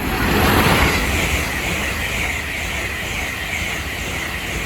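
LNER Class 801 Azuma electric multiple unit passing at speed: a loud rush of wheels and air that peaks just under a second in and then slowly eases off.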